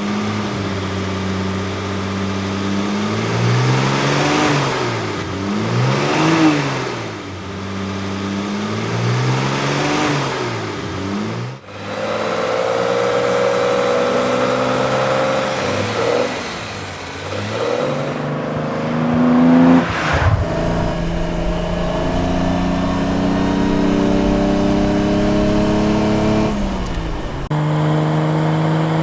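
Classic Maserati GT engine idling, then blipped through three rising-and-falling revs. After that it pulls under load, the note climbing steadily, dropping at two gear changes in the second half and climbing again.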